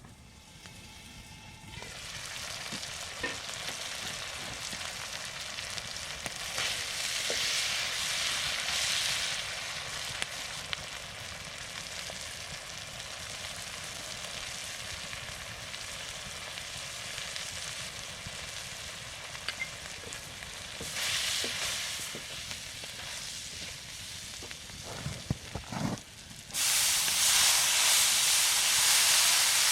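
Food sizzling in a hot pan over a campfire, swelling twice. A few light knocks come near the end, then a much louder sizzle starts suddenly.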